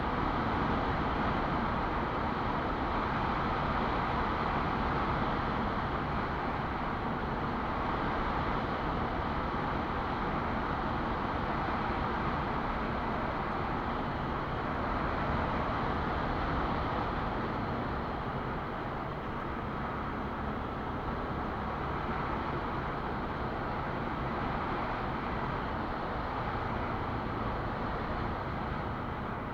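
Quad bike (ATV) engine running steadily while riding, a dense, even drone with little change in level.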